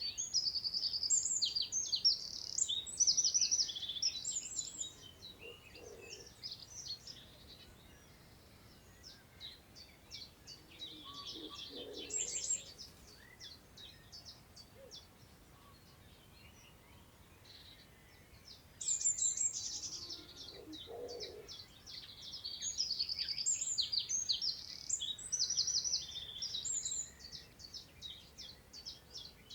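A songbird singing long, rapid phrases of high notes, one for the first five seconds and another from about two-thirds in. A shorter phrase comes in between.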